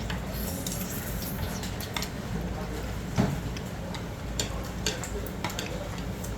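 Utensils clicking and knocking against a bowl during eating, a few separate clicks with one stronger knock about three seconds in, over steady background noise.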